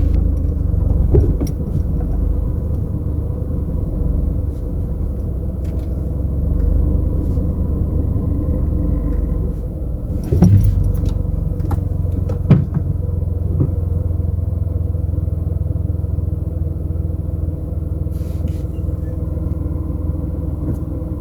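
Car driving, engine and road noise heard from inside the cabin as a steady low rumble, with two sharp knocks about halfway through.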